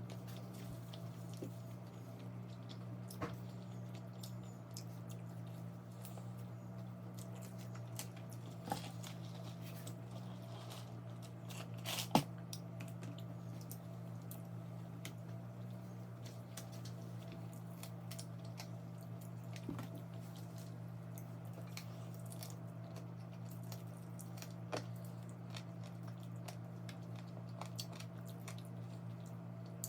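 Someone chewing and biting into KFC fried chicken, wet chewing with scattered small crunches and clicks, one sharper click about twelve seconds in, over a steady low hum.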